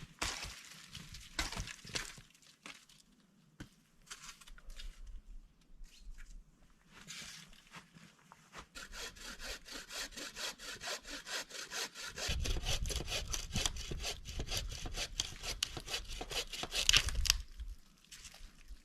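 A hand saw cutting wood in rapid, even strokes, about five a second, heavier in the second half and stopping abruptly; before it, a few scattered knocks.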